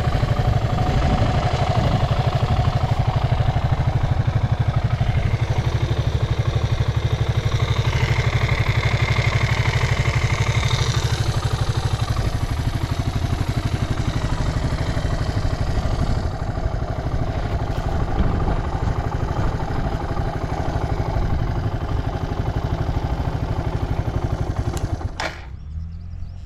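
Suzuki Djebel 125's air-cooled single-cylinder four-stroke engine idling steadily, running without any abnormal noise. A sharp click comes near the end, after which the sound gets quieter.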